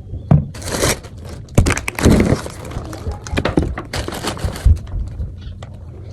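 Plastic shopping bags rustling and crinkling as groceries are handled, with a few irregular knocks of items being set down.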